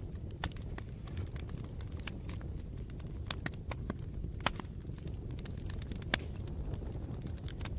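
Campfire burning: a steady low rumble of the flames with frequent, irregular sharp crackles and pops from the burning wood. The loudest pops come about four and a half and six seconds in.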